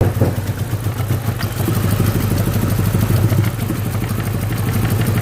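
BMW E90 engine idling roughly with an uneven, stumbling beat: a misfire, which the mechanic puts down to the first start after it ran out of fuel.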